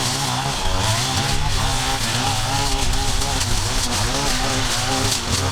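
A small engine of yard-clearing equipment running, its pitch rising and falling in quick, repeated swells.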